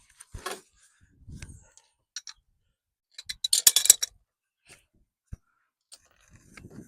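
Scattered clicks and knocks of tools and metal parts being handled, with a loud burst of rattling about three and a half seconds in.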